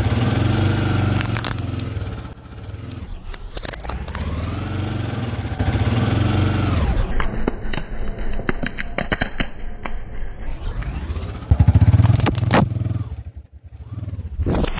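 Tuk-tuk (auto rickshaw) engine running and revving, its pitch rising and falling, while its wheels roll over and crush crunchy objects with a run of crackles and sharp snaps through the middle. A louder sharp crack comes near the end.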